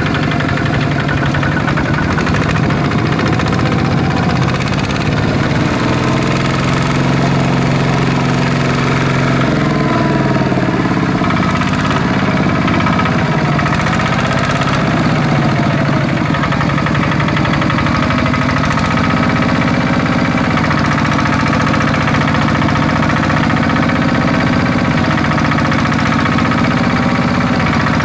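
Small Kubota tractor's engine running continuously; its speed rises and falls for a while in the middle, then settles steady.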